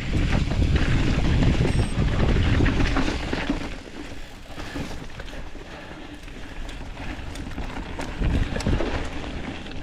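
Wind buffeting the microphone of a mountain bike ride's onboard camera at speed, with rattling from the bike over the trail; the wind rumble eases about three and a half seconds in, leaving quieter tyre noise and scattered clicks and knocks.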